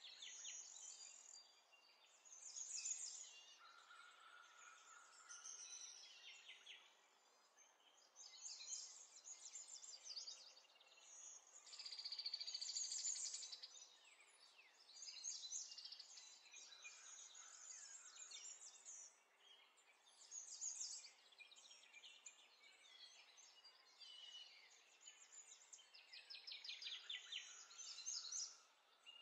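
Faint birdsong: several birds chirping and trilling in quick runs of high notes, over a faint steady hiss.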